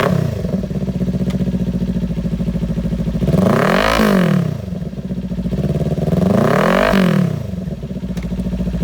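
Kawasaki Ninja 400 parallel-twin engine running through a Musarri GP Street Series slip-on exhaust: idling, then revved twice, with the pitch rising and falling back around four and seven seconds in.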